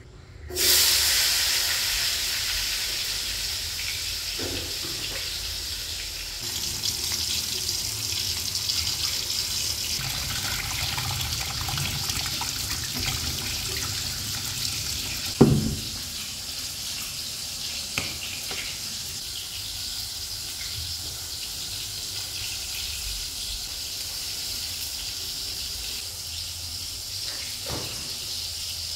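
Food frying in hot oil: a sizzle that starts suddenly and loud, then settles to a steady hiss. A sharp knock comes about halfway through, and after it the sizzle is a little quieter.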